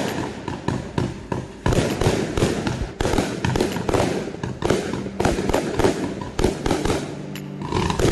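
A 100-shot aerial fireworks cake firing in a fast volley: shot after shot, several a second, of launch thumps and bursts with crackle, broken by brief pauses and easing off near the end.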